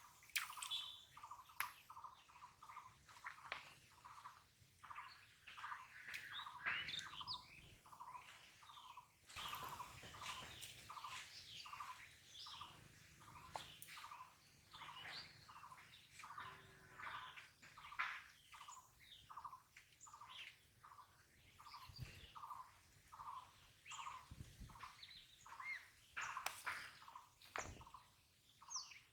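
Birds calling: one repeats a short note about twice a second without pause, while others chirp over it. A few faint low thumps come near the end.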